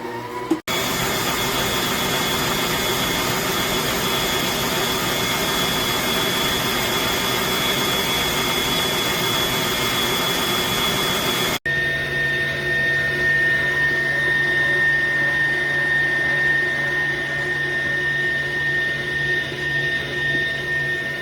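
COOKLEE 660 W stand mixer's electric motor running steadily with a whine. The sound cuts off abruptly about half a second in and again about halfway through, and after the second break the whine is lower in pitch.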